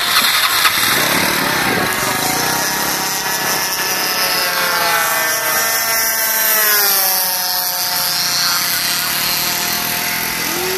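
Two-stroke single-cylinder DLE 20cc gasoline engines of RC warbird models flying, a steady buzz whose pitch sweeps up and down as a plane passes close.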